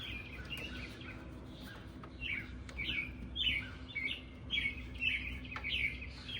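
A bird chirping over and over, short chirps about two a second, over a faint steady hum.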